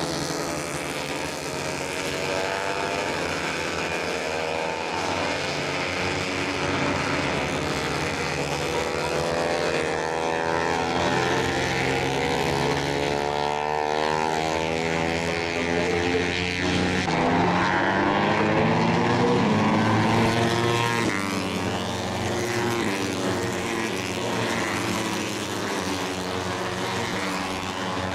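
Several Moto3 racing motorcycles, 250 cc single-cylinder four-stroke engines, running at high revs as they pass on track, their overlapping pitches rising and falling through gear changes, loudest about two-thirds of the way in.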